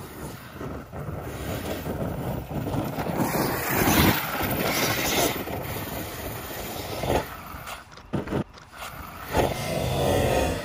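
Arrma Kraton 8S 1/5-scale electric RC monster truck driving hard over dirt: its brushless motor and tyres run in surges, loudest about four seconds in and again near the end.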